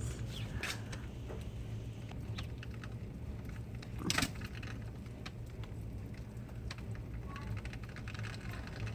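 Storm wind buffeting the microphone as a steady low rumble, with many small ticks and clicks scattered throughout and a louder rustle about four seconds in.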